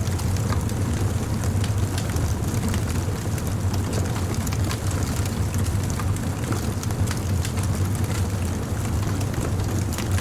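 Wood bonfire burning: a steady low rumble of the flames with frequent small crackles and pops scattered through it.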